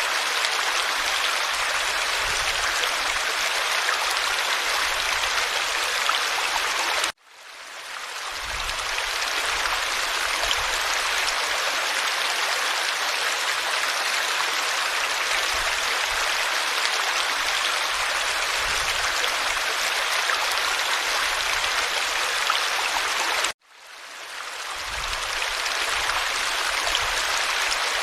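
Forest stream flowing, a steady rush of water. The sound cuts out suddenly twice and fades back in over a couple of seconds each time.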